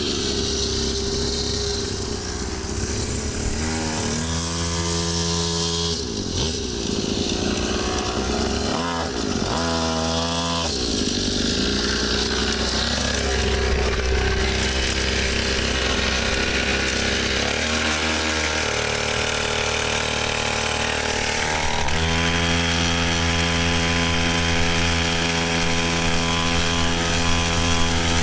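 Small 49cc two-stroke pit bike engine running hard, its high buzzing note rising and falling several times as the throttle is worked, then holding a steady pitch over the last few seconds.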